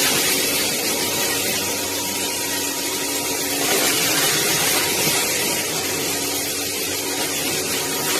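Bulelink cordless stick vacuum running steadily, its motor giving a constant rushing hiss with a thin whine over it.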